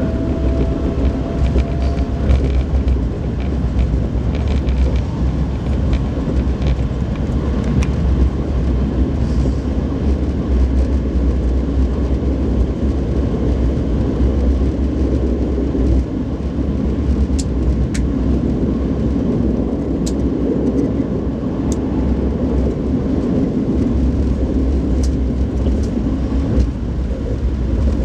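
Alfa Pendular (Pendolino) tilting train running along the line: a steady low rumble, with a few sharp clicks in the second half.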